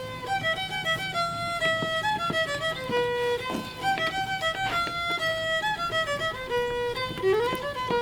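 Background fiddle music: a violin playing a lilting melody of short, changing notes.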